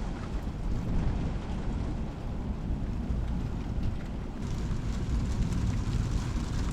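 Thunderstorm: a continuous low rumble under a steady hiss, which grows brighter about four and a half seconds in.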